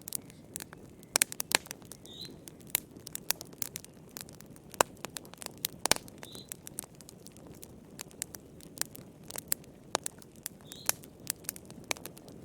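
Wood fire crackling in a fireplace: irregular sharp pops and snaps over a low steady rustle of flame. A faint short high chirp comes about every four seconds.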